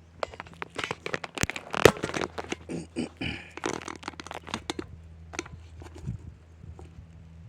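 Close handling noise: rapid crinkling, crunching and snapping, busiest over the first five seconds with one sharp crack about two seconds in, then only a few scattered clicks.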